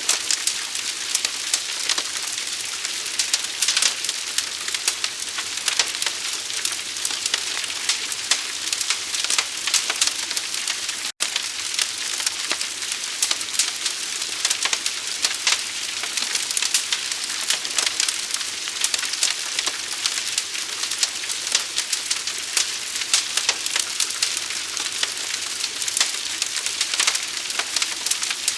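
Forest fire burning with a dense, continuous crackling hiss of many small pops. The sound cuts out for an instant about eleven seconds in.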